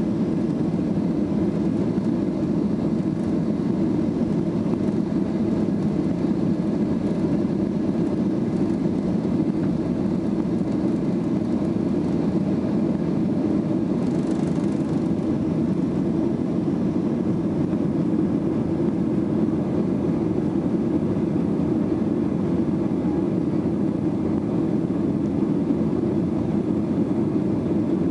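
Steady roar of a Boeing 737-800's engines and airflow heard inside the passenger cabin, holding an even level with no change in pitch.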